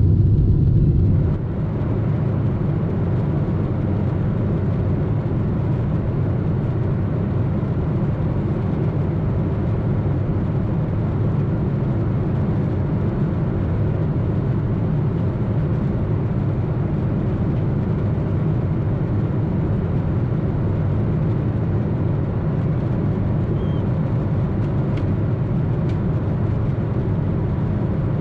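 Steady roar of a Boeing 747-8's four GEnx-2B engines and the rush of air past the fuselage, heard inside the passenger cabin in climb. The roar is deepest and loudest low down, and it drops slightly a little over a second in.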